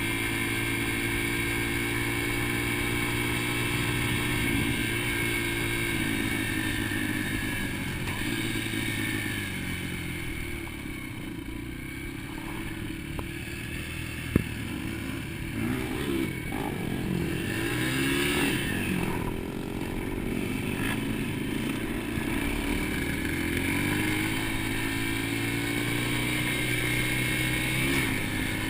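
Dirt bike engine running while riding, holding steady and then climbing and dropping in pitch with throttle and gear changes. A single sharp knock comes about 14 seconds in.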